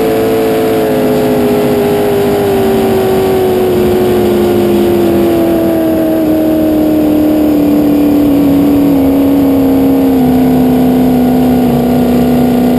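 Race boat's fuel-injected V8 engine running loud, its note falling slowly and evenly as the revs come down.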